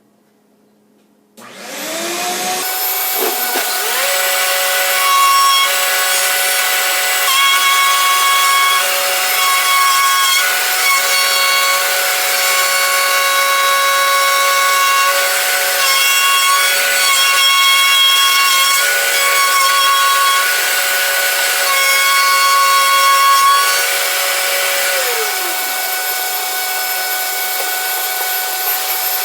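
A wood router starts about a second and a half in, spins up with a rising whine and then runs steadily. It is cutting a circle through half-inch plywood on a pivoting circle-cutting jig, its noise swelling and shifting as the bit bites into the wood, and easing a little near the end.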